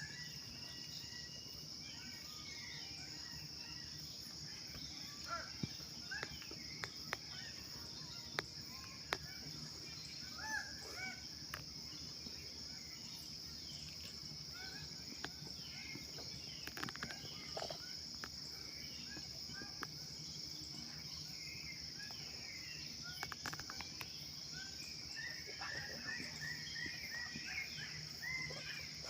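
A steady high insect drone, with scattered short bird chirps and a few sharp clicks over it; the chirping grows busier near the end.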